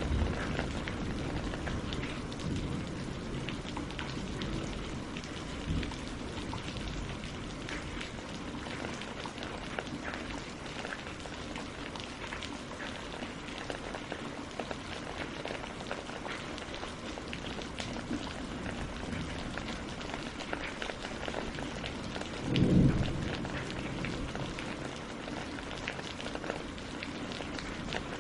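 Steady rain falling on a mountain lake and on tree leaves, a dense even patter with scattered individual drop ticks. A brief low thump stands out about 23 seconds in.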